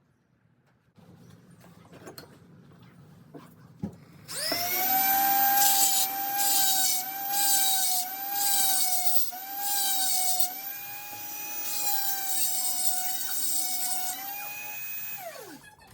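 Angle grinder with a grinding disc switched on and grinding the steel blade: a loud high whine that wavers slightly as it is worked, with a grinding rasp that swells and fades about once a second. A sharp click comes just before it starts, and near the end the whine winds down.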